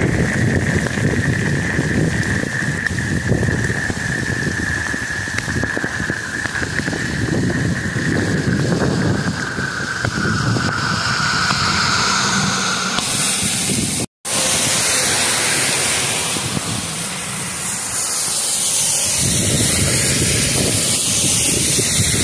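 Torrential rain pouring down steadily, with wind buffeting the microphone. After a brief dropout about two thirds of the way through, the rain becomes a brighter, higher hiss.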